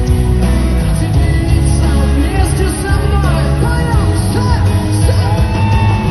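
Live pop-rock band playing loud, with heavy bass and drums, and a voice singing over it with bending, held notes.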